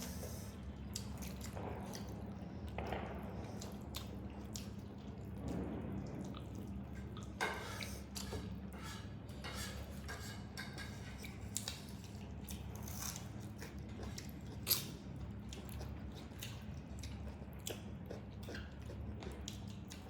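Mukbang eating sounds: chewing and wet mouth noises of people eating chicken curry and rice, with scattered small clicks and smacks, over a steady low hum.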